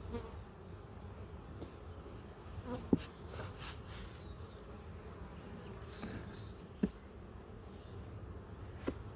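Honeybees buzzing steadily around an opened hive, with three short sharp taps about three, seven and nine seconds in.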